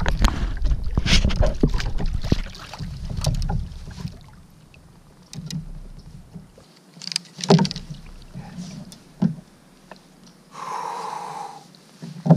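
Sounds of handling aboard a kayak on the water: wind rumbling on the microphone for the first few seconds, then scattered sharp knocks and clicks against the kayak.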